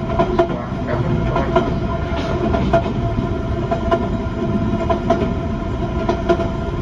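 Running noise of a local passenger train heard from inside the car: a steady rumble with a faint steady tone and irregular clicks and knocks from the wheels on the track.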